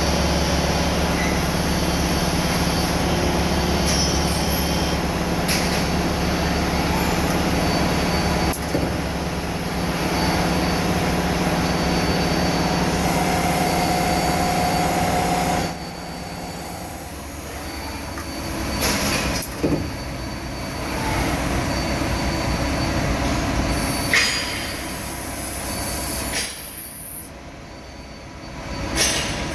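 Workshop machinery running in a piston-making shop: a steady mechanical hum with high metallic squealing. The sound changes abruptly a couple of times and a harsh screech rises briefly near the end.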